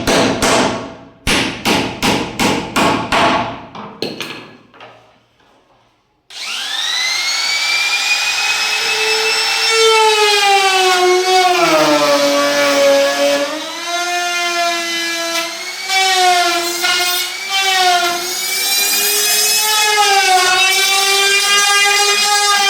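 About four seconds of repeated hammer-like knocks, then, after a short pause, a power tool's motor switches on. Its whine rises in pitch as it spins up, then runs on with the pitch wavering up and down as the load changes.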